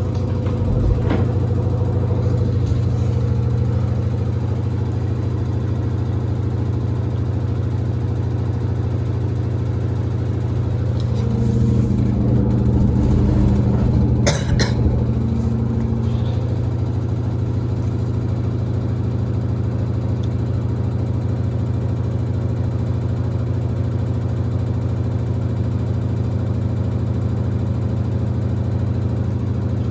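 Samsung WD70T4047CE washer-dryer spinning its drum with two pairs of sneakers inside, a steady loud low hum. Sharp knocks come about a second in and again around fourteen seconds, the shoes striking the drum.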